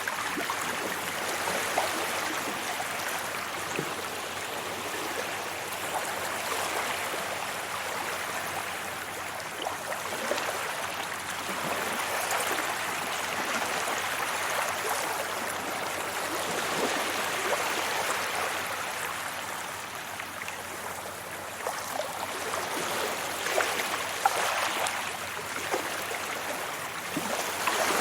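Sea waves washing up on a beach: a steady rush of surf that swells and eases every several seconds, with small splashes and fizzing as the water runs over the shore.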